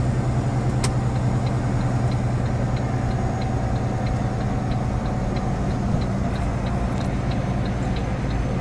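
Truck engine running with a steady low drone heard from inside the cab, while the right turn signal ticks evenly, a little over two ticks a second.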